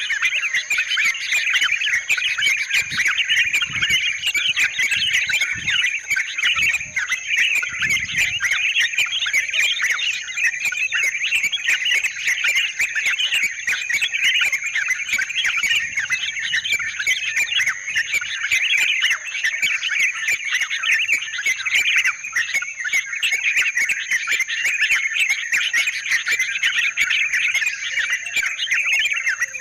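Yellow-vented bulbuls chattering and calling continuously in a dense, busy stream of bubbly notes, over a steady high-pitched insect trill.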